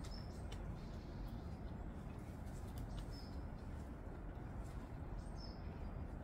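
A few short, high bird chirps, about three spread across the stretch, over a steady low outdoor rumble.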